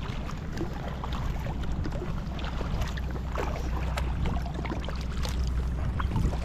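Kayak paddle dipping and splashing in the water, with many short irregular splashes and drips over a steady low rumble of wind on the microphone.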